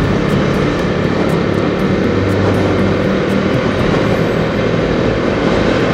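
Bajaj Dominar's single-cylinder engine running steadily while riding along, with wind and road noise.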